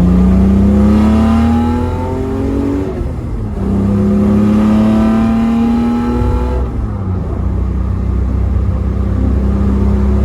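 Modified Datsun L28 straight-six on twin SU carburettors, exhaling through a Z-Story Race/Sport header and Thrush 17715 muffler, accelerating: the engine note climbs, drops at an upshift about three seconds in and climbs again through the next gear. It then settles to a steady cruising note about six and a half seconds in.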